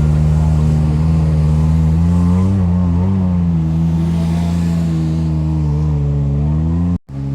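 Side-by-side UTV engine running steadily, with the engine note dipping and rising slightly a few times as the throttle changes. The sound cuts out abruptly for a moment near the end.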